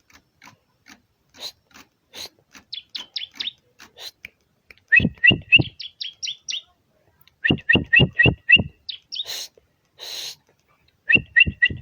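Bar-winged prinia (ciblek) calling: scattered short chirps, then quick runs of repeated sharp two-pitched notes at about five a second, three runs in all. There are two short bursts of hiss between the second and third runs.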